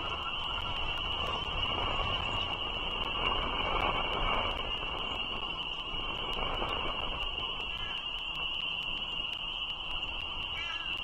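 A steady, high-pitched frog chorus, with the rushing noise of road traffic that swells twice.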